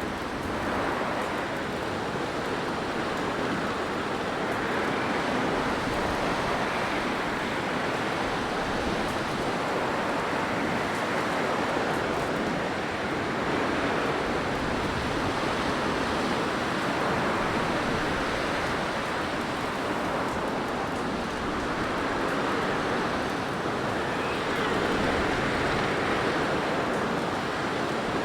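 Blizzard wind ambience: a steady rushing hiss of wind-driven noise that slowly swells and eases, with no distinct gusts or other events.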